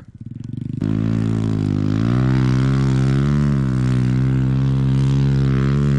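Off-road vehicle engine running at fairly steady revs, close by and loud, starting up strongly about a second in.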